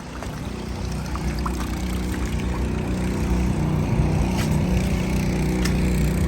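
Flood-water pumps running: a steady low mechanical drone that grows gradually louder.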